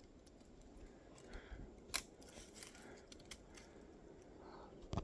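A few sharp clicks over a faint, steady outdoor background: a louder click about two seconds in and another near the end.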